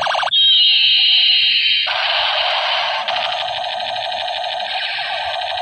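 Toy space gun's electronic sound effect through its small built-in speaker: a brief rapid pulsing, then a high whistling tone, then from about two seconds in a continuous harsh electronic buzzing.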